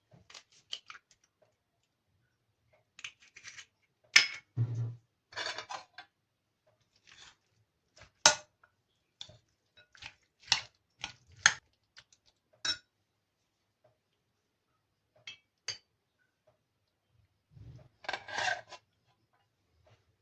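Dishes and metal cutlery clinking and clattering in irregular, separate knocks, some with a short ring, with a longer scrape near the end.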